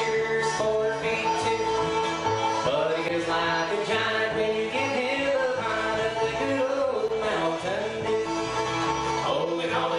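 Live acoustic bluegrass band playing: string instruments and double bass carrying a steady, continuous tune.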